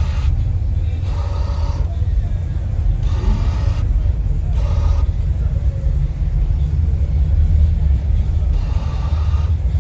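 A car engine's steady deep rumble, with faint voices now and then.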